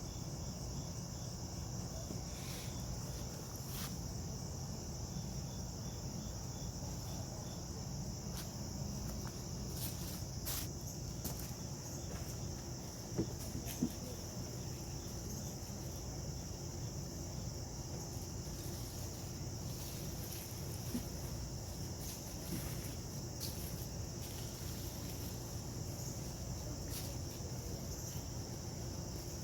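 Steady chirring of crickets, over a low rumble, with a few brief clicks and rustles scattered through.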